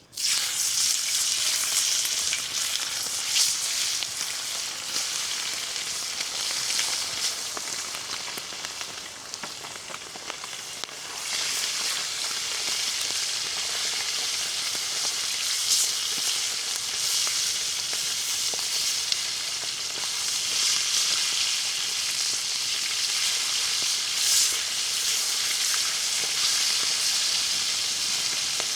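Chicken frying on a saj, a domed iron griddle, with a steady loud sizzle. The sizzle eases for a few seconds, then picks up again about eleven seconds in.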